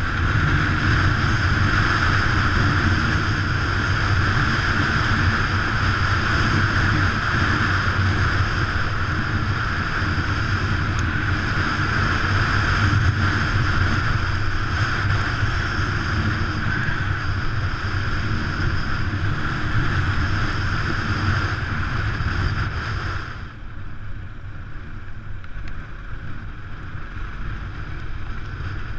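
Enduro motorcycle running while being ridden, with wind rushing over the microphone. About 23 seconds in, the sound drops and becomes quieter and duller.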